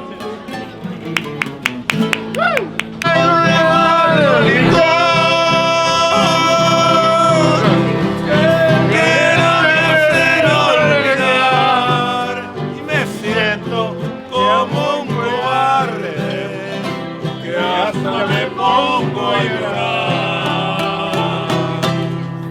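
Band playing Mexican music: guitars strummed under long held melody notes, with some singing between songs.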